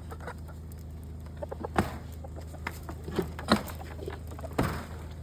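Farmyard poultry clucking and giving short calls, with a few sharp knocks in between, the loudest near the end, over a steady low hum.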